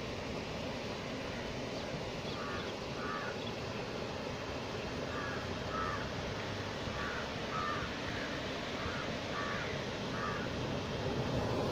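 A crow cawing, about ten short caws mostly in pairs, over a steady rushing background noise.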